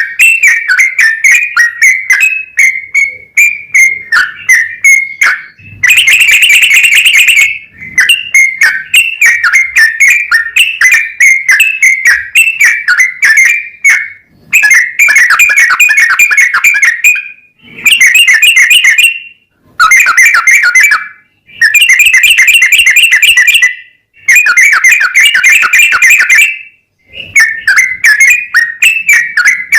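Yellow-vented bulbul (trucukan) singing: a stream of bright chirping notes broken by about six long, fast trilled runs of a couple of seconds each.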